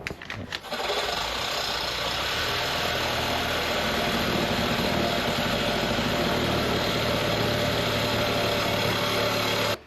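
A steady mechanical running noise, even and continuous, that cuts off abruptly near the end.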